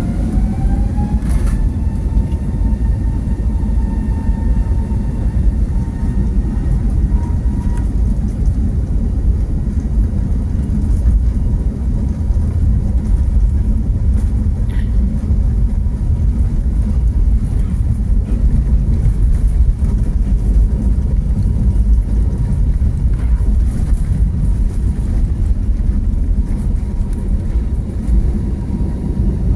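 Airbus A320neo jet engine and airframe noise heard from inside the cabin: a loud, steady low rumble. Over it an engine whine rises, levels off about two seconds in and fades out by about eight seconds.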